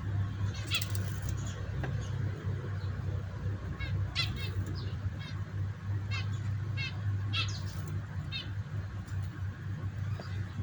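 Pet birds giving short, repeated chirps every second or so, over a steady low hum.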